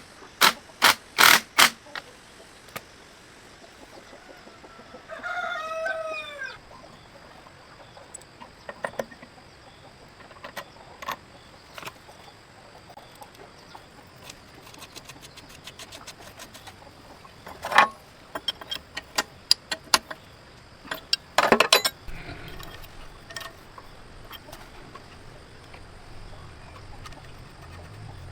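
A rooster crows once about five seconds in, with chickens clucking. Sharp knocks sound as a quick run in the first two seconds and again later, around the 18 and 21 s marks.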